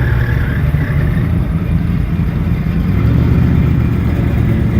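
A car's engine running with a low exhaust rumble, getting slightly louder about three seconds in.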